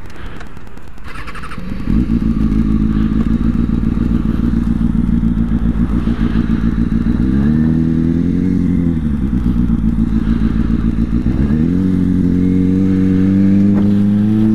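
2005 Kawasaki ZX-6R's inline-four engine restarting after stalling: it fires up about two seconds in and settles into a steady idle. The revs rise and fall once, then rise again and stay higher near the end.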